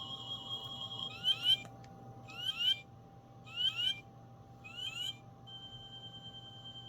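Star Trek TNG medical tricorder prop playing its electronic sound effect: a steady high beep tone, then four repeated bursts of paired rising chirps about a second apart, after which a steady high tone resumes.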